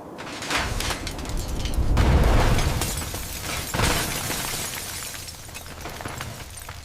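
Crunching, cracking and clattering of scrap car metal and glass being broken up by heavy machinery, with a deep rumbling surge about two seconds in and a sharp crash near four seconds.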